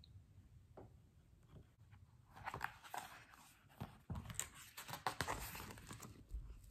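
A page of a hardcover picture book being turned by hand: faint paper rustling and light handling taps in a few short clusters, starting about two seconds in.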